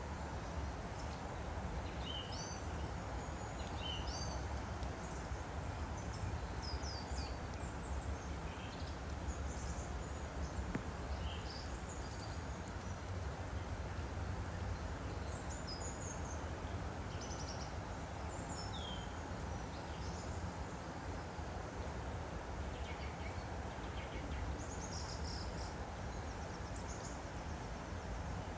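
Woodland stream flowing steadily, with small birds chirping in short, high calls scattered over it.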